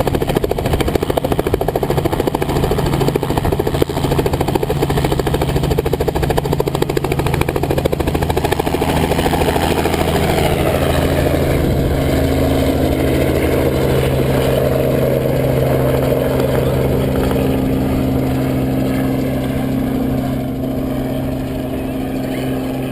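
Robinson R44 Raven helicopter running, a steady engine hum under a fast, even rotor beat; the sound changes about ten seconds in and then settles again.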